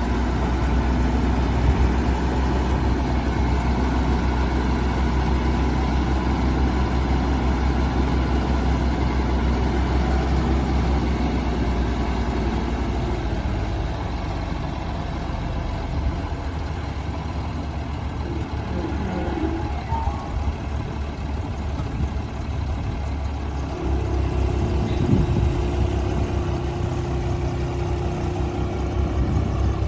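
Diesel engine of an Ottawa yard spotter truck idling steadily. Its low note changes about halfway through, and a steady higher tone joins it near the end.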